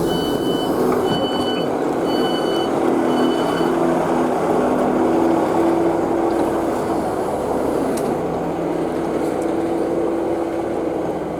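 Class 150 Sprinter diesel multiple unit: its door warning beeps sound five times, high and evenly spaced, over the steady running of its diesel engines. The beeps stop about four seconds in, and the engine note then shifts in pitch twice.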